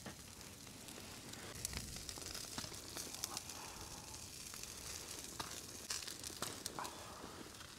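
Food frying in a pan, a steady quiet sizzle with scattered small pops and crackles.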